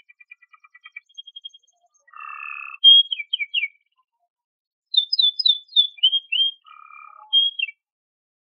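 Canary singing: a quick run of ticking notes, a buzzy rasp, then loud, sharp down-slurred notes in two rapid bursts with a pause of about a second between them.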